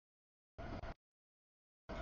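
Rumble of a passing double-stack freight train, with a steady mid-pitched tone running through it, heard in two short bursts that cut out abruptly to dead silence in between, as if the audio feed keeps dropping out.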